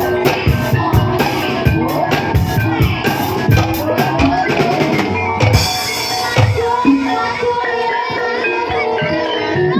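Ebeg dance accompaniment music with drums beating a steady rhythm over melodic instruments. The drumming drops away about five and a half seconds in, leaving held melodic tones.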